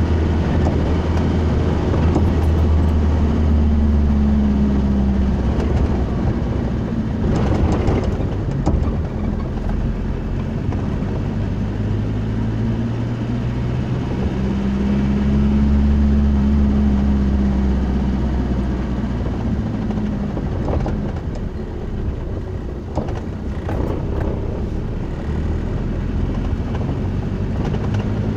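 A car driving: a steady low engine and road hum whose pitch rises and falls twice as it speeds up and slows, with a few brief knocks.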